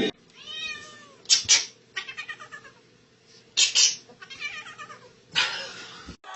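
A cat meowing several times, with a few short bursts of hissy noise between the meows.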